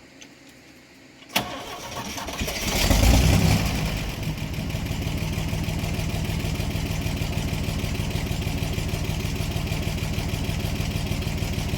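An engine starts about a second and a half in with a sharp click, revs up briefly, then settles into a steady idle.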